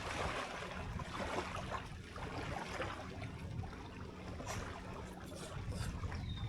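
Wind rumbling on the microphone over a steady outdoor hiss, with a few faint clicks from about four seconds in.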